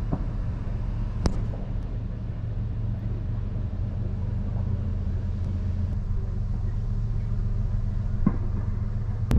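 Car engine idling steadily, heard from inside the cabin as a low hum, with a couple of small clicks, one about a second in and one near the end.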